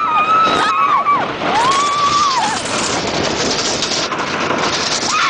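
Roller-coaster riders whooping in long high calls, two of them in the first half, over the steady rush of wind and track noise from the wooden coaster train.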